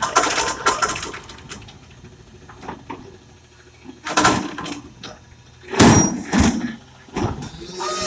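Recycling truck at work: its engine runs quietly under a series of sharp metal bangs and clatters, the loudest about six seconds in.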